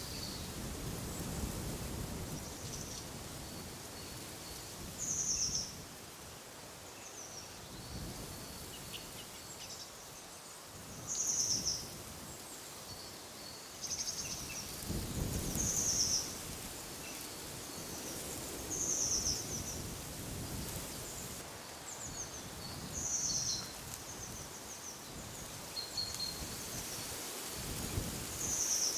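Birds calling in woodland: one bird repeats a short, high call every three to six seconds, with fainter calls in between. Wind rumbles over it in gusts, strongest about halfway through and near the end.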